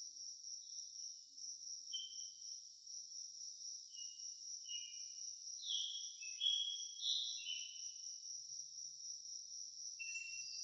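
A steady high-pitched insect chorus, with short downward-sliding bird chirps scattered over it, several close together in the middle and one more near the end.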